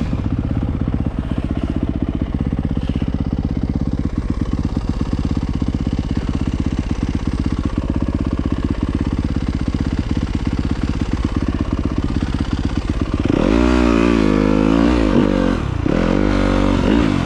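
Off-road motorcycle engine running at low, steady speed with even firing pulses, then revving up and down several times from about three-quarters of the way in.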